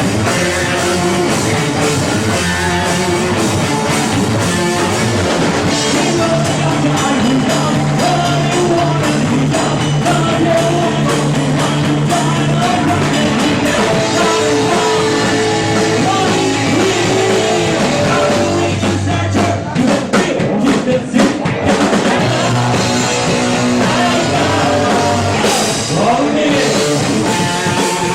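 Live rock band playing: distorted electric guitars, bass and drum kit with a singer, heard loud as a concert recording.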